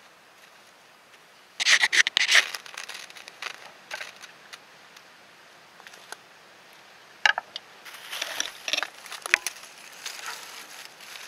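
Irregular bursts of crunching, crackling and scraping, loudest about two seconds in, with a second cluster of crackles and knocks past the middle.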